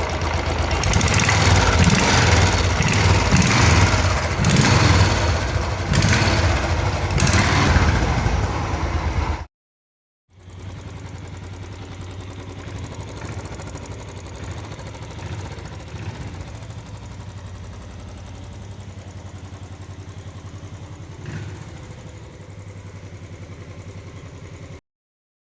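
Royal Enfield Classic single-cylinder engine running with a freshly replaced crankshaft: loud with a rising and falling level for about nine seconds, then, after a short break, idling more quietly and steadily. There is no vibration noise, which shows the crankshaft fault has been cured.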